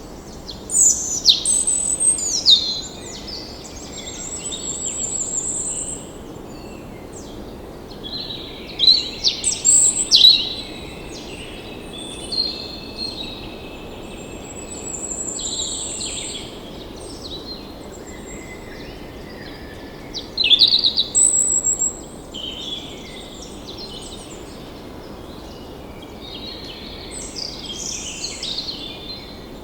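Birds singing and calling in bouts of chirps and quick trills, over a steady rushing background noise.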